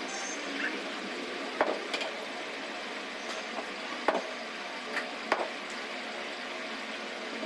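Five short, sharp taps or clicks over a steady background hiss.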